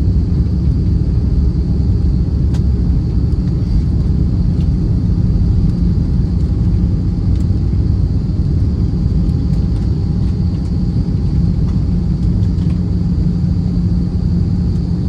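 Cabin noise inside an Airbus A320: a steady, loud rumble of the engines and airflow, with a faint, steady high whine above it.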